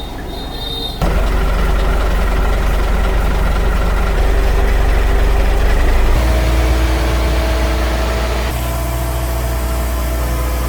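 Concrete pump truck's diesel engine running, rising sharply in level about a second in as it is revved up to drive the hydraulics for raising the boom. Its steady pitch shifts again around the middle and near the end.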